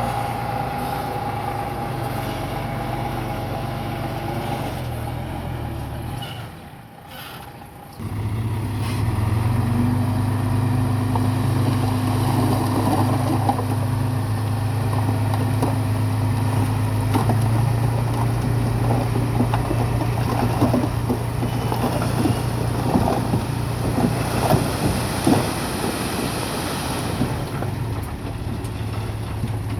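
Heavy diesel engine of earthmoving machinery running steadily, dropping away briefly about seven seconds in and then coming back louder, with repeated metallic clanks and rattles over it.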